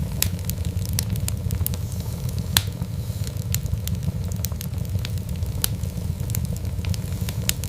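Wood fire burning with a steady low rumble and frequent sharp crackles and pops, one louder pop about two and a half seconds in.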